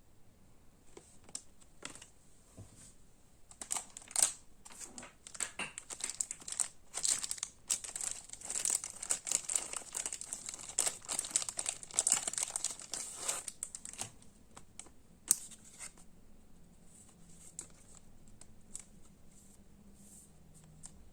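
Plastic wrapping on Pokémon trading-card packaging being torn open and crinkled by hand. A few light clicks come first, then a dense stretch of crackling from a few seconds in until about two-thirds of the way through. One sharp snap follows, then only faint handling.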